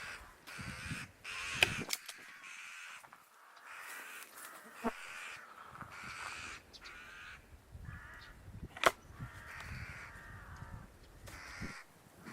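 Crows cawing again and again, call after call, with a few sharp, brief clicks in between.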